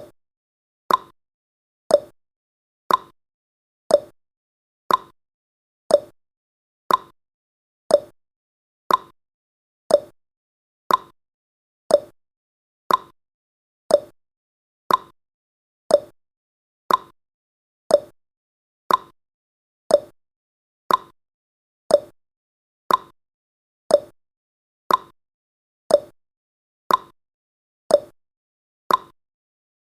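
Clock-style ticking sound effect of a countdown timer: one short, sharp tick every second, evenly paced.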